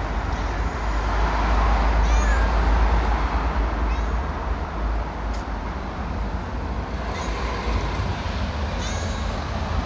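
A stray cat meowing, with a steady low rumble underneath.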